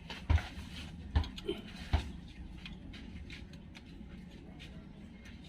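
Hand tools working on a Mitsubishi 4D56 diesel engine during a valve-clearance tune-up: sharp metallic clicks and knocks, about one a second for the first two seconds, then fainter rattling.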